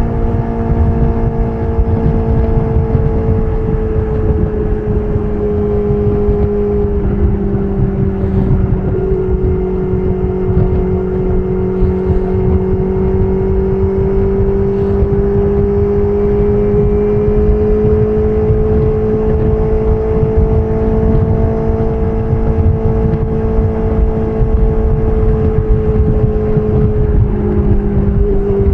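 BMW S1000RR's inline-four engine through an SC Project CR-T titanium exhaust, running at steady throttle while riding, its note drifting gently up and down. The pitch dips briefly near the end, and a dense low rush runs underneath.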